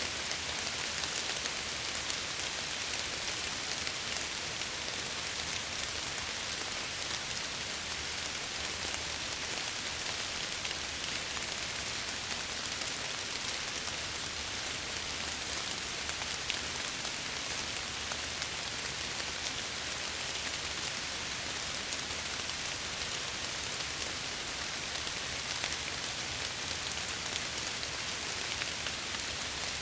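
Steady rain pattering on window glass, an even hiss with faint scattered drop ticks.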